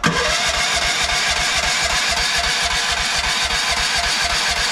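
Small gasoline engine of a mini excavator starting cold on full choke: it catches right away and runs steadily at low idle with an even low pulse.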